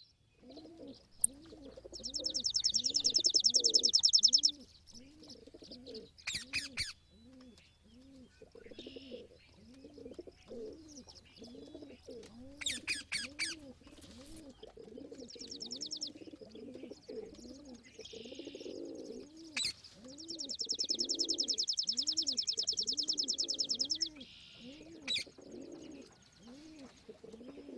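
Pigeons cooing over and over in a steady low rhythm, with other small birds chirping. Long high rapid trills come in twice, loudest about two to four seconds in and again from about twenty to twenty-four seconds.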